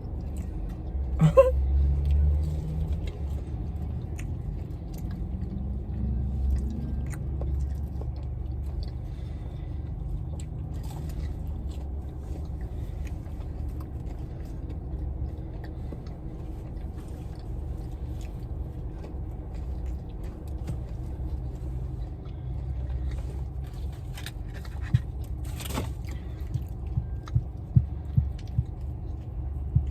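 Steady low rumble of a car heard from inside the cabin, with a few short clicks and knocks near the end.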